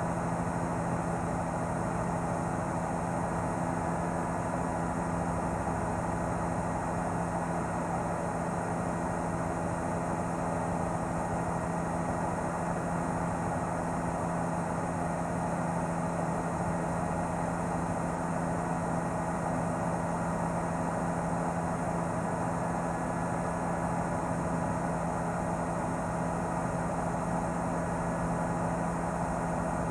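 Helicopter noise heard from on board: a steady engine and rotor drone with several constant tones, unchanging throughout.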